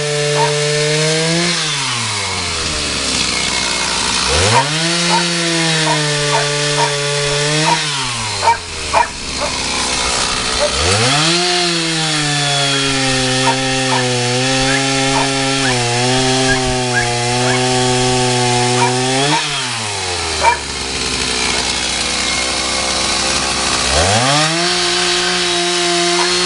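Chainsaw cutting wood. It is held at full throttle through several cuts lasting a few seconds to about eight seconds, and drops back to idle between them. There are two sharp knocks during an idle about a third of the way in.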